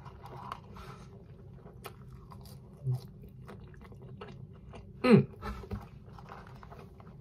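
A person chewing a mouthful of McDonald's french fries, with faint soft crunches and mouth clicks. About five seconds in comes a brief hum of the voice that falls in pitch.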